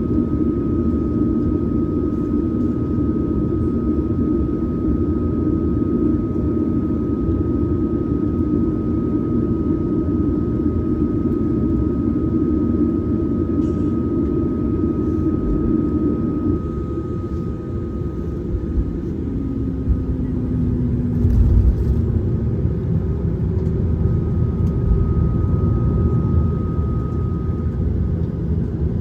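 Cabin noise of a Boeing 737-900ER taxiing: the steady rumble of its CFM56 jet engines at idle with a thin constant whine. About halfway through, part of the engine hum drops away, and a brief low thump comes a few seconds later.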